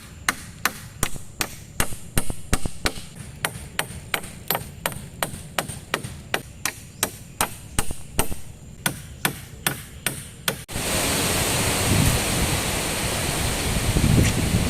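Rapid, evenly spaced chopping strikes on wood, about three a second. They cut off abruptly near the end and give way to the steady rushing of heavy rain and wind.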